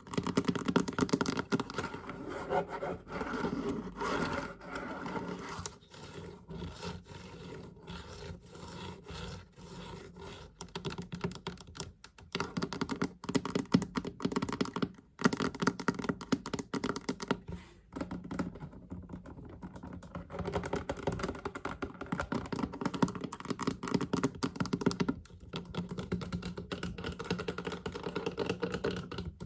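Fast tapping on a storage chest: a dense stream of quick taps, broken by a few short pauses.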